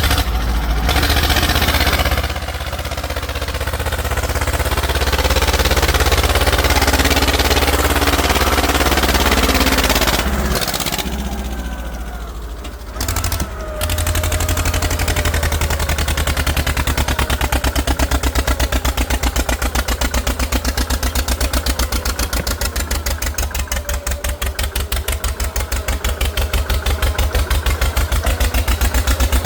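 Tractor engine running under load, broken by several abrupt cuts. From about halfway it settles into a fast, even chugging of firing pulses.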